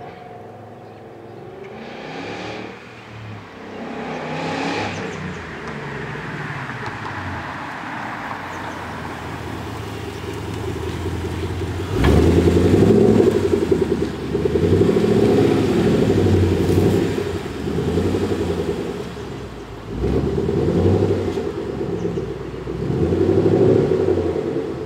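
2011 Mustang GT's 5.0 Coyote V8 through a custom single-chamber exhaust with factory shorty headers. Two quick revs in the first few seconds, then the engine note builds and suddenly gets much louder about halfway, rising and falling several times.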